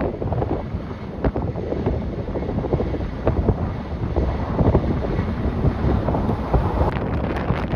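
Strong gusting wind buffeting the microphone, a dense uneven rumble.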